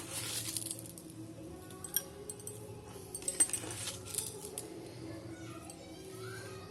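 A spoon clinking and scraping against a glass while chocolate powder is added to milk. There is a short scraping rustle at the start, then scattered single clinks.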